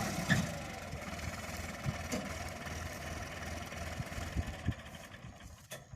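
Sonalika DI 750 tractor's diesel engine running, dying down sharply in the first second to a faint, steady idle-like run with a few scattered knocks.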